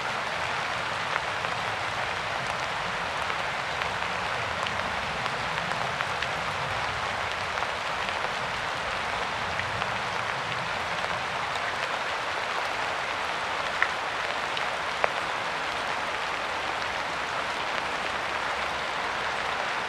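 Steady rain falling on a surface, an even hiss with scattered individual drop ticks, two sharper drops standing out about 14 and 15 seconds in.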